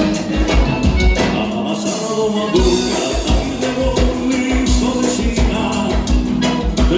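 Live música gaúcha from a dance band, with a steady bass-drum beat under sustained instrument tones; the drums and bass drop out briefly about two seconds in.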